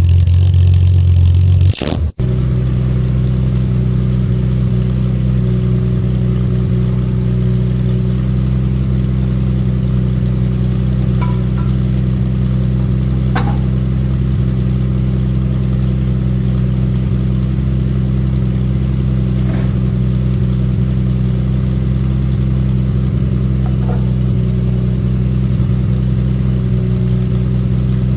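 Triumph TR6 straight-six engine running through a new stainless exhaust with twin packed back boxes and twin 40 mm tailpipes. After a louder stretch that breaks off sharply about two seconds in, it settles into a steady idle.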